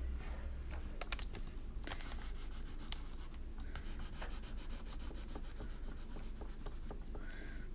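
Caran d'Ache Neocolor II wax pastel crayon rubbing and scratching across paper as colour is laid down, with scattered small ticks. A short faint tone near the end.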